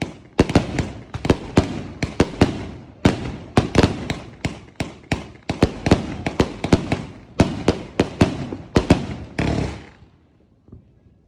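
200-shot firework cake firing: a rapid run of sharp bangs, about three a second, each ringing out briefly. The bangs stop about ten seconds in.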